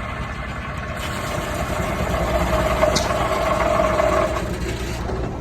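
Steam traction engine driving a sawmill, running steadily with a low, even beat. A whine swells over it about one and a half seconds in and fades away about four and a half seconds in.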